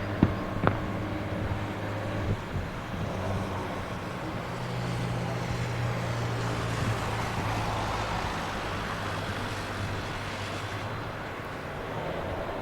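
Boeing 757 jet engines running at low taxi power: a steady rumble with a low hum that swells a little in the middle. Two sharp clicks come in the first second.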